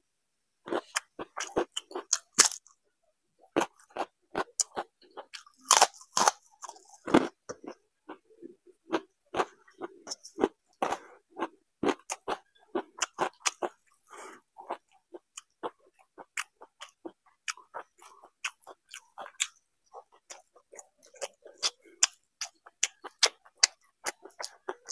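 Close-up chewing and crunching as a man eats crisp fried potato chips and fried fish with watery rice: a rapid run of short crunches and wet mouth clicks, with a few louder crunches around two and six seconds in.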